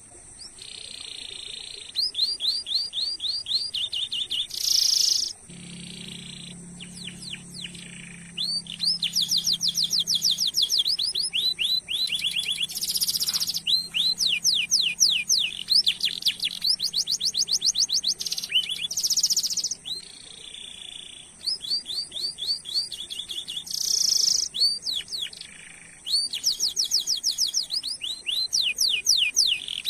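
Domestic canary singing long rolling phrases: fast trills of repeated falling notes alternating with short buzzy held notes, in loud runs broken by brief pauses.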